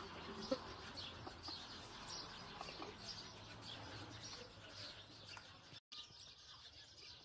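Small birds chirping faintly and repeatedly, with one sharp knock about half a second in. The sound drops out for a moment near the end.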